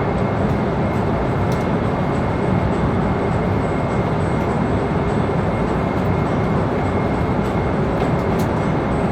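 Airliner passenger cabin noise in flight: a steady, even rush of engine and airflow noise, heaviest in the low range, with a faint thin whine held throughout and a couple of faint ticks.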